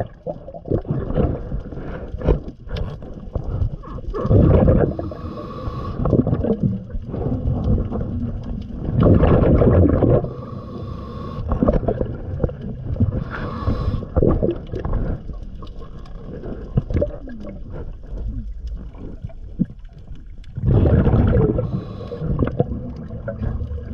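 Underwater breathing of a diver: exhaled bubbles gurgling out in a loud burst every few seconds, with fainter hissing breaths in between.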